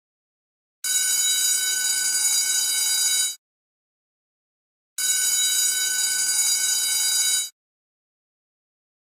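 Electric school bell ringing in bursts of about two and a half seconds, twice, with complete silence between them. A third ring starts at the very end. It is a steady, bright ring with a strong high overtone.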